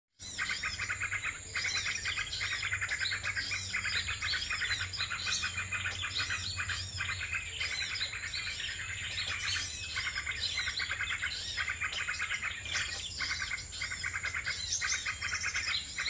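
Many small birds chirping and twittering in rapid, nearly unbroken runs, with brief pauses every few seconds, over a steady high-pitched whine.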